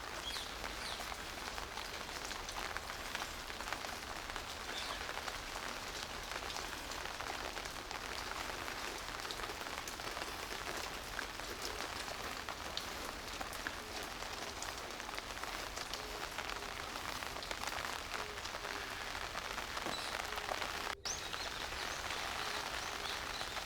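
Steady rain falling, with many small drop impacts ticking throughout; the sound cuts out for an instant near the end.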